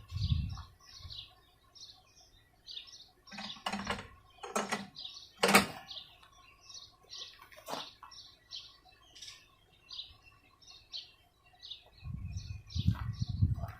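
A bird chirping over and over, about two short chirps a second, with a few sharp knocks from mower parts being handled during assembly and a low rumble near the end.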